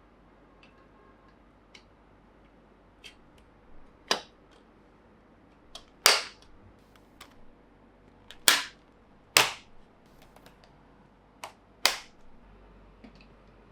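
Plastic Plarail toy train track and parts clacking as they are handled and set together: irregular sharp clicks, five of them louder than the rest.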